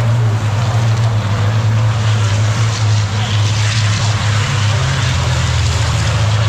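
Racing trucks' big diesel engines running hard on the circuit: a loud, steady low drone that dips slightly in pitch about four to five seconds in.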